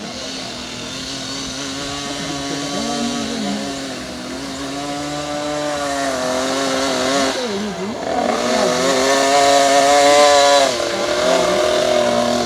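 Motocross bike engines running on the track, their pitch dipping and climbing as the riders work the throttle. The engines grow louder toward about ten seconds in, then drop off sharply.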